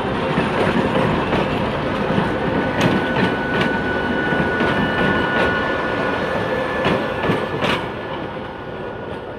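A train rolling past at close range: a loud steady rumble of wheels on rail, with sharp clacks over the rail joints and a faint high wheel squeal in the middle. It fades away after about eight seconds.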